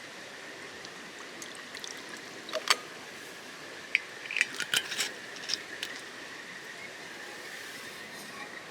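A dozen or so short, sharp clicks and clinks, mostly bunched in the middle, over a steady background hiss with a faint, thin steady tone.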